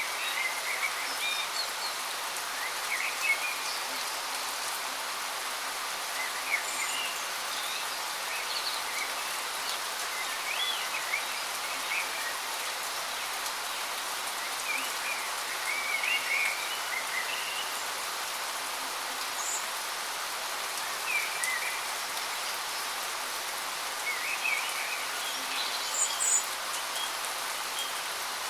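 Waterfall's steady rush of falling water, with small birds chirping on and off over it.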